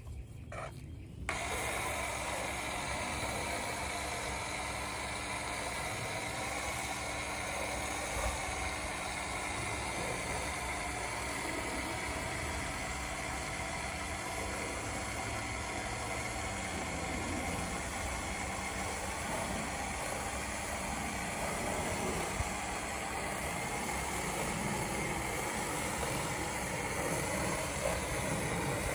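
Pressure washer starting up about a second in and then running steadily while spraying siding.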